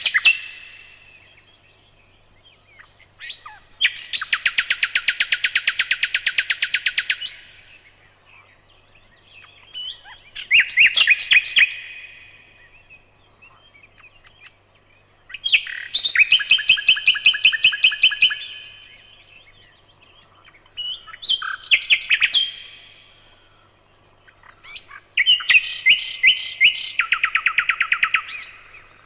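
Nightingale singing: a series of loud phrases of rapidly repeated notes and trills, each lasting one to four seconds, with pauses of a few seconds between them.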